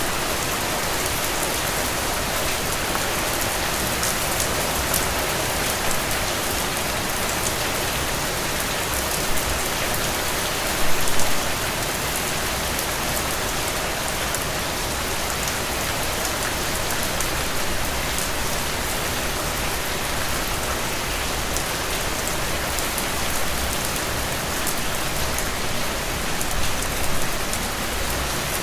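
Heavy, steady rain falling on soil and puddles: an even hiss dotted with drop impacts, with a brief louder spatter about eleven seconds in and another near the end.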